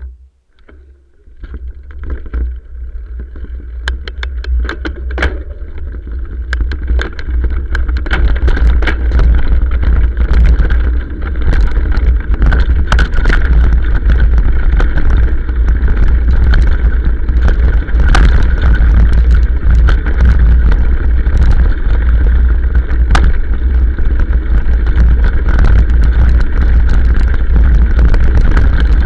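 Motorcycle riding down a hill track, its running mixed with a heavy low rumble of wind on the microphone and many sharp knocks and rattles. The noise builds over the first several seconds and then stays loud.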